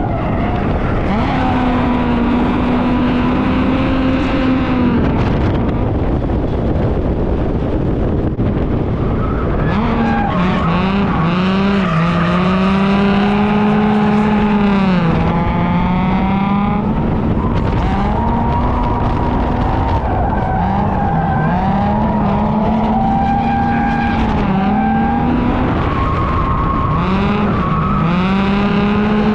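Car engine on track revving up and down under hard throttle, its pitch climbing and dipping again and again, over steady tyre and road noise.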